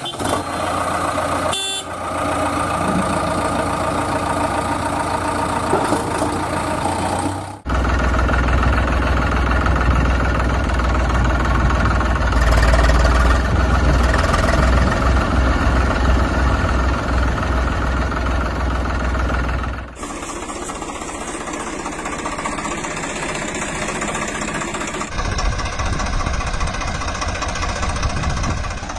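Diesel engines of a JCB backhoe loader and a tractor running steadily with a deep low hum, cut abruptly between clips a few times; loudest in the middle stretch.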